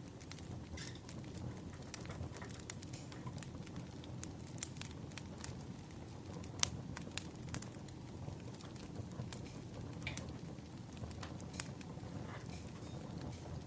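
Wood fire crackling: irregular sharp pops and snaps over a steady low rushing background.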